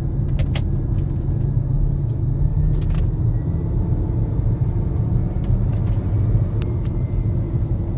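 The naturally aspirated 5.0 V8 of a 2010 Range Rover L322 running, heard from inside the cabin as a steady low rumble with a few faint clicks. The alternator is suspected to have failed, and the transmission is stuck in second gear in what the driver takes for limp mode.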